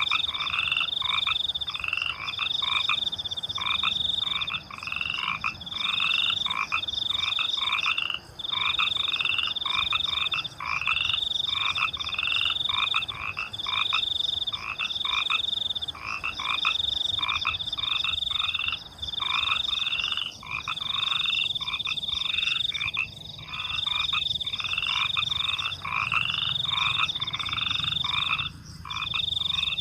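A chorus of frogs croaking in quick repeated calls, about two a second, over a steady high-pitched cricket trill.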